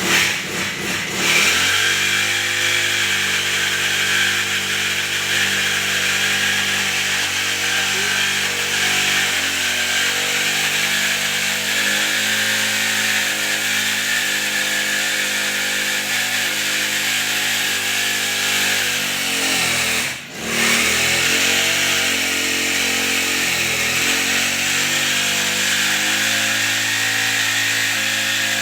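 Brush cutter running a chainsaw attachment, sawing wood under steady load. The engine dips sharply and picks up again about twenty seconds in.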